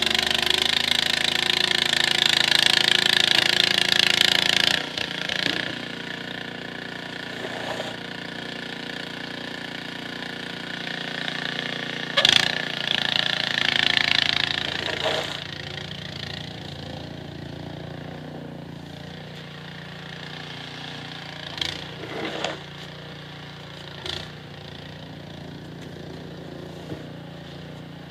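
Small engine running steadily, typical of a snowblower, with a loud hiss for the first five seconds and a few short knocks later on.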